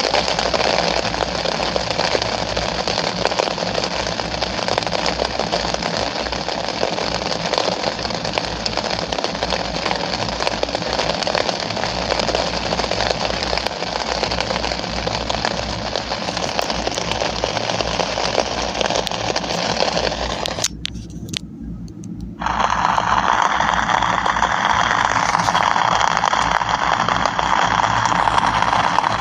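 Steady rain hissing. About three-quarters of the way through, the hiss drops out for about two seconds, then the rain resumes with a fuller sound.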